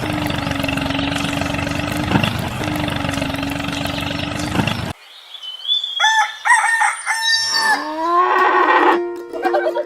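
A small motor runs steadily with a constant hum and cuts off suddenly about halfway through. A rooster then crows once, a long call that falls in pitch at the end.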